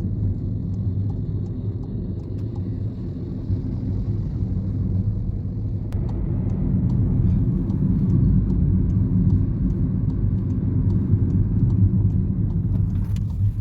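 Car cabin noise while driving: a steady low road and engine rumble, getting a little louder about halfway through.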